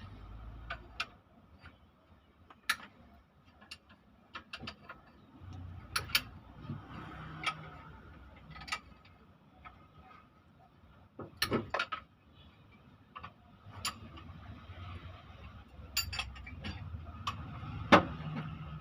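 Hand tools working on a disassembled engine: irregular metallic clicks, taps and knocks of tools on engine parts, with the loudest knock near the end.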